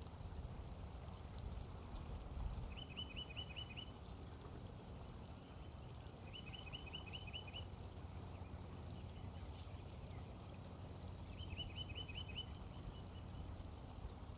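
Great crested flycatcher calling three times, each call a run of about six quick, even notes lasting just over a second, over a steady low rumble.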